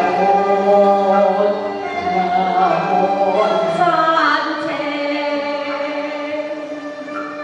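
Cantonese opera (yueqiu) singing: a voice holds long notes that slide between pitches over the band's instrumental accompaniment.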